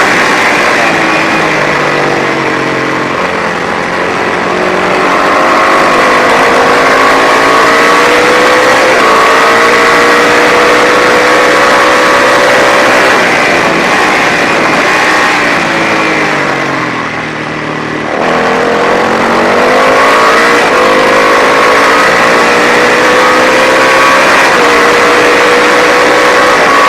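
Racing motorcycle engine, a Matchless G50 500 cc single, at race pace. Its pitch climbs through the revs and drops at the gear changes. About two-thirds in it eases off, with a brief dip in level, then climbs again.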